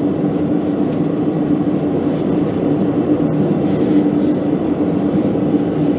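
Blacksmith's forge running: a steady rushing noise with a constant low hum, without change and with no hammer strikes.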